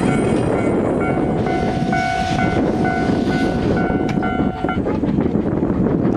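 SL Mooka steam-hauled passenger train rolling past on the rails, a steady heavy rumble of wheels on track. A thin steady ringing tone sits over it from about a second in until near five seconds.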